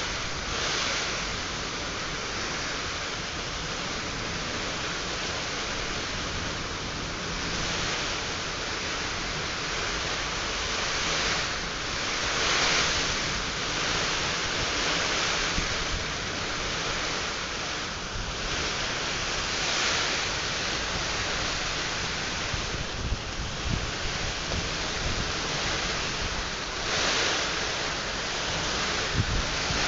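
Heavy nor'wester rain and gusting wind on a plastic-sheet roof: a steady hiss that swells with each gust, several times over.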